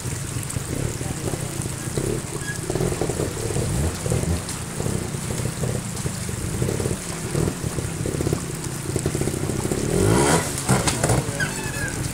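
Trials motorcycle engine running at low revs with repeated short throttle blips, then a sharp rev about ten seconds in as the bike climbs the rocky step.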